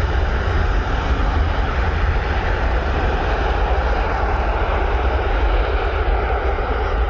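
Jet airliner taking off, its engines at takeoff thrust making a loud, steady rushing noise with a deep rumble.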